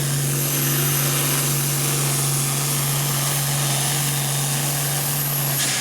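Modified hot farm pulling tractor's engine running at high, steady revs under load as it pulls the sled, with a wide noisy rush over a steady engine tone; it cuts off suddenly near the end.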